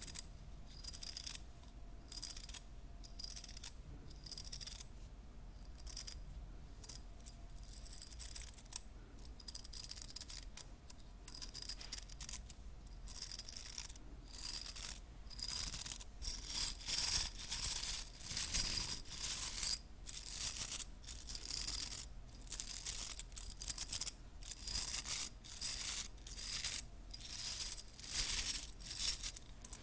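Hairbrush bristles swept in repeated short strokes, about one a second, growing louder about halfway through.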